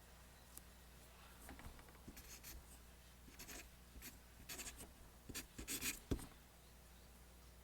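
Pencil drawing lines on paper: a run of short scratchy strokes that come closer together and louder a few seconds in, ending with one sharper stroke about six seconds in.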